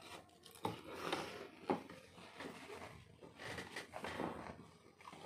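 Close-up chewing of a mouthful of fried bakwan vegetable fritter, with two short clicks about a second apart, likely the spoon against the plate.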